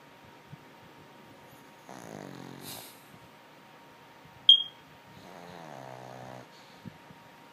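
Pug snoring: two long snores about three seconds apart, each a low buzz. A brief sharp high-pitched squeak between them is the loudest sound.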